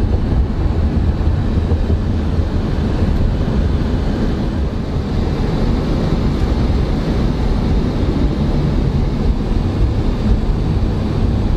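Steady road and wind noise of a moving car heard from inside the cabin, mostly a deep rumble.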